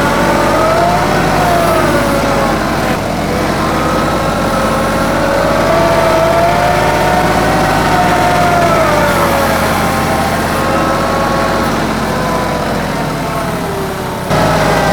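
TYM 2515H compact tractor's diesel engine running steadily under load while working a BH150 backhoe, with a whine that rises and falls in pitch as the backhoe is operated. The sound changes abruptly just before the end.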